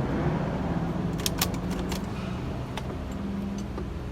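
A steady low mechanical hum with a cluster of light, sharp clicks and taps between about one and two seconds in, and one more a little later.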